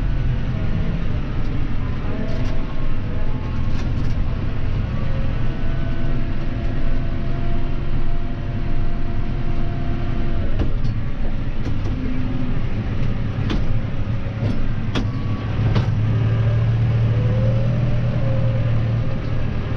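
Claas Arion 530 tractor engine running steadily, its engine note shifting a few times. A handful of sharp clicks or knocks come in the second half, and the low hum grows stronger near the end.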